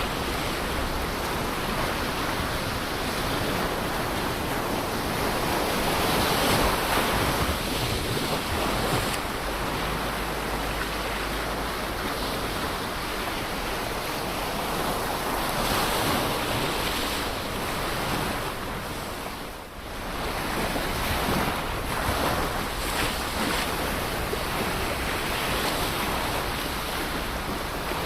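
Ocean waves breaking and washing on the shore, a continuous surf wash that swells and eases every few seconds, with a short lull just before two-thirds of the way through. Wind buffets the microphone.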